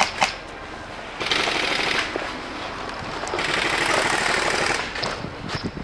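Airsoft electric gun firing two full-auto bursts, a short one about a second in and a longer one of about a second and a half, each a rapid buzzing rattle. Two sharp clicks come right at the start.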